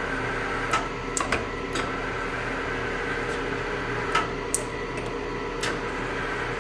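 Steady machine hum with a few sharp clicks and light knocks scattered through it, as the lathe's hand wheels are worked.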